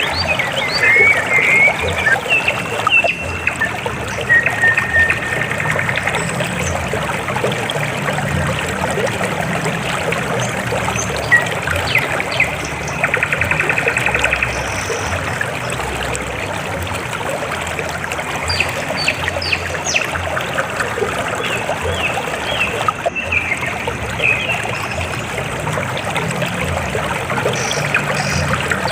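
River water flowing and trickling over rocks in a steady, continuous rush.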